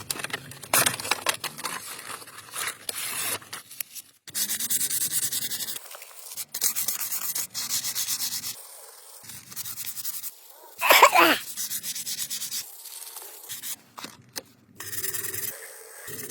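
Rust being sanded and rubbed off a car's metal body panel, in a string of short scratchy passages with abrupt cuts between them. About eleven seconds in there is a brief, louder sound that falls in pitch.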